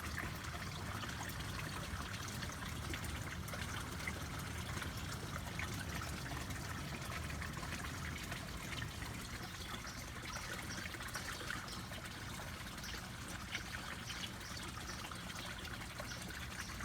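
Water trickling steadily, with a low steady hum underneath.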